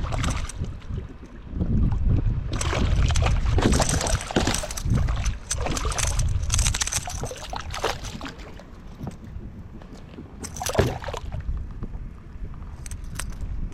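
Strong wind buffeting the microphone, with water sloshing around a kayak and a few sharp clicks near the end.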